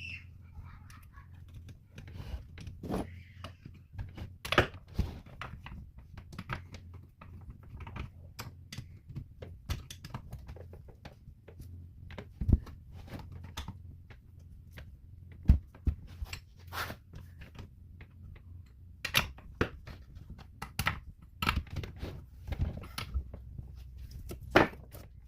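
Irregular clicks, taps and clunks of hand tools and metal chainsaw parts being handled while the bar and chain are fitted back on, over a steady low hum.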